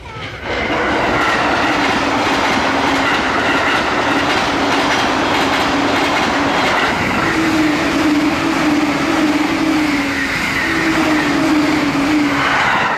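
Electric limited express train passing close by on the track, a loud steady rumble of wheels on rail with a faint clickety-clack and a steady hum. It comes up suddenly about half a second in and drops away at the very end.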